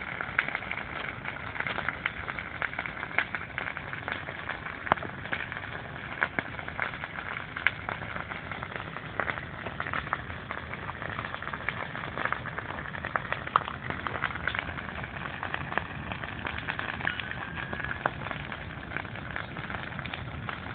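Wood campfire burning: steady hissing with frequent sharp crackles and pops at irregular intervals.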